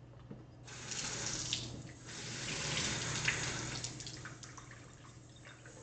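Tap water running in a bathtub while shampoo is rinsed off a cat. The water starts about a second in, dips briefly, runs again and fades out near the end.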